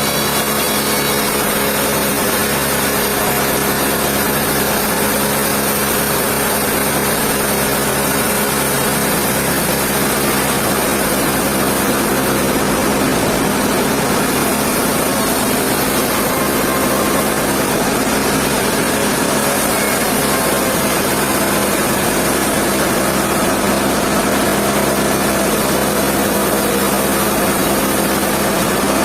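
Sawmill machinery running steadily: an even motor hum with a constant hiss over it.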